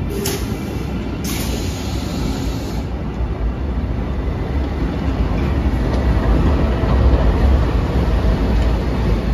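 A train running by: a steady rumble of wheels on the rails that swells louder about six to eight seconds in. Two short bursts of hiss come in the first three seconds.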